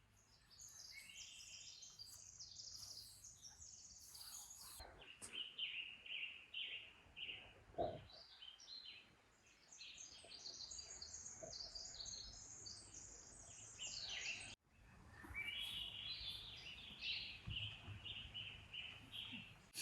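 Small birds chirping and singing in quick runs of short, repeated high notes over faint outdoor hiss, with a soft thump about eight seconds in. The sound cuts out abruptly for a moment about two-thirds of the way through, then the birdsong carries on.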